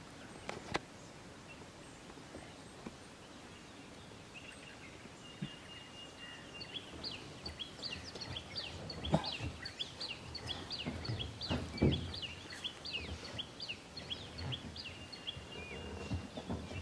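A bird singing a quick run of short, high chirps over a thin, steady whistle, from about five seconds in until near the end. Two dull thumps land about nine and twelve seconds in.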